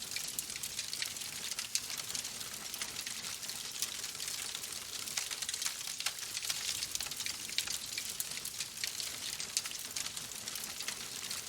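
Fireplace fire crackling: a dense, steady patter of small pops and snaps over a soft hiss.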